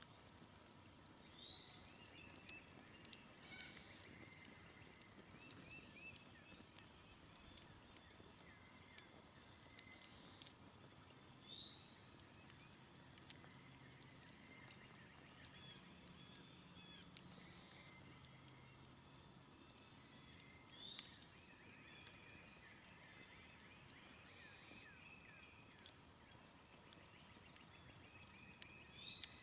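Smoldering campfire crackling with scattered sharp pops, one louder snap about seven seconds in, while birds call and trill in short repeated phrases in the background.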